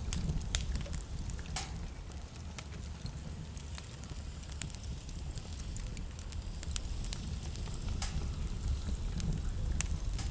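Wood fire in a fireplace burning steadily: a low rumble of flame with irregular sharp crackles and pops scattered throughout.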